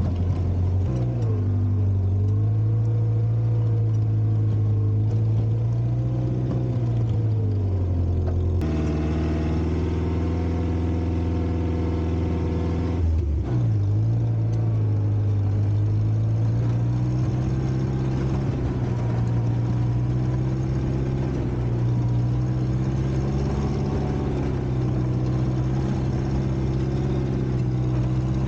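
1960s Kalmar baggage tractor's Volvo four-cylinder gasoline engine running under load, its revs rising and falling gently. The sound changes abruptly about nine seconds in and dips briefly around thirteen seconds.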